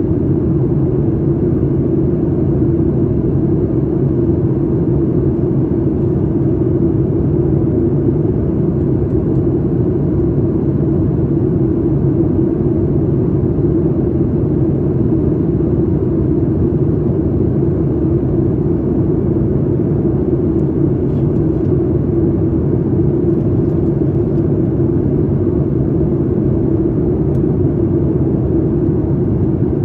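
Steady cabin noise inside a Boeing 737 MAX 8 in flight: its CFM LEAP-1B jet engines and the rushing air make an unbroken low rumble with a steady drone.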